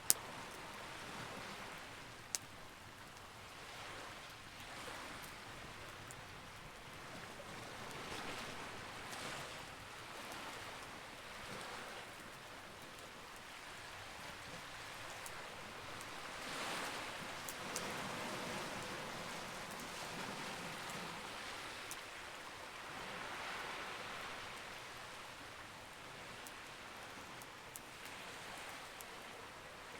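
Campfire crackling, with a few sharp pops over a steady rushing hiss that slowly swells and fades every several seconds.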